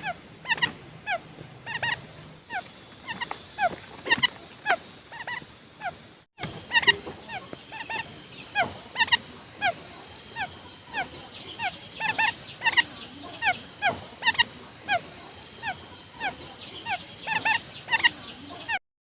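Quail calling: a rapid series of short, falling, pitched notes, several a second, used as a lure call for attracting wild quail. The calls stop briefly about six seconds in and cut off just before the end.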